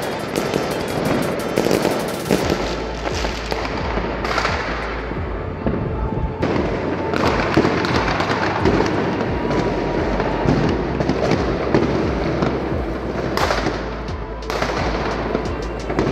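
Fireworks and firecrackers going off in a dense string of sharp cracks and bangs, heaviest in the first couple of seconds and again near the end.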